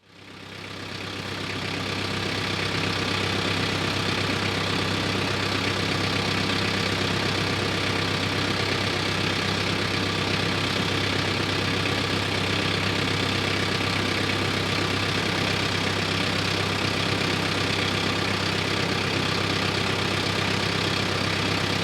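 An engine idling steadily, fading in over the first couple of seconds and then holding an even, unchanging hum.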